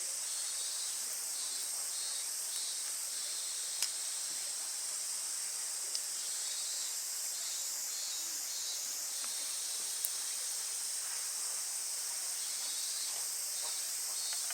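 Wood campfire burning, with three sharp crackling pops over a steady high hiss.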